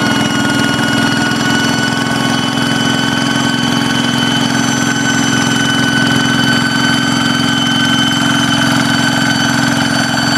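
Kubota diesel engine of a hand tractor running steadily at speed. A high, steady whistle sits over the engine note, giving the jet-like sound the machine is built for.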